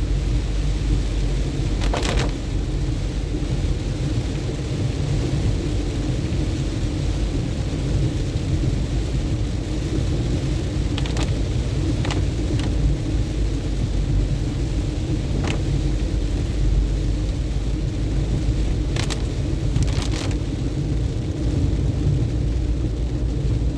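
Car travelling on a road in the rain: a steady low rumble of engine and tyre noise under a hiss, broken by a few brief sharp sounds.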